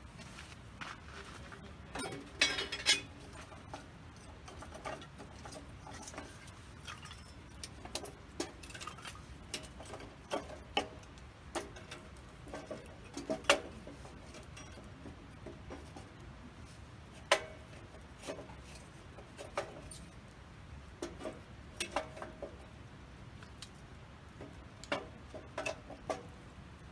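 Wood campfire crackling: irregular sharp snaps and pops over a faint hiss, with a few louder pops.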